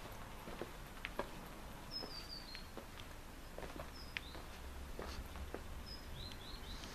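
Small birds chirping in short, high, falling notes, now singly and now a few in quick succession, with three quick chirps near the end, over a faint steady background hum and scattered light clicks.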